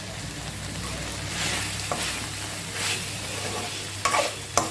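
Chicken sizzling as it fries in a kadai while a spatula stirs it, with several scraping strokes against the pan and a sharp knock near the end.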